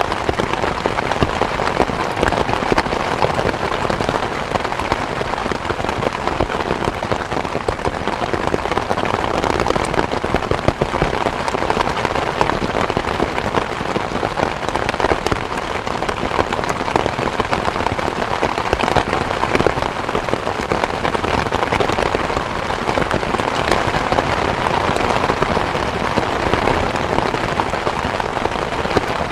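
Steady rain falling, a dense patter of individual drops over an even hiss, unchanging throughout.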